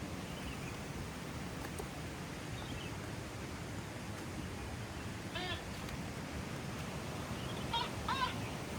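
Steady rush of a waterfall's flowing water, with three short pitched calls over it, one about halfway through and two in quick succession near the end.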